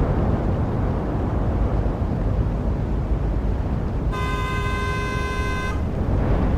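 Road traffic rumbling steadily, with a vehicle horn honking once, held for about a second and a half, about four seconds in.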